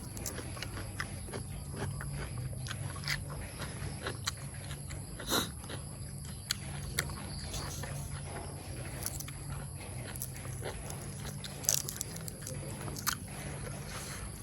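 A person chewing and eating, with irregular small clicks and smacks, over a steady low hum.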